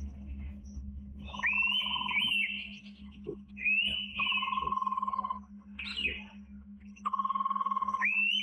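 Indian pitta calling in three bouts of whistled notes, each a high whistle with quick pitch flicks over a steadier lower note, with a faint steady low hum underneath.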